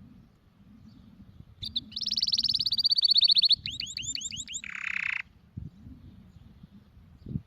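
Domestic canary singing one phrase: a fast trill held at one pitch, then a handful of quick downward-sweeping notes and a short buzzy ending. A low background rumble with a soft thump near the end lies underneath.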